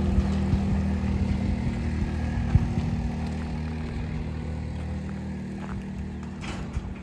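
A motor vehicle's engine running at a steady pitch and growing steadily fainter.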